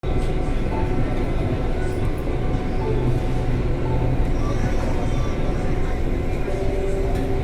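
Mumbai Metro train running between stations, a steady rumble of wheels and motors heard from inside the carriage.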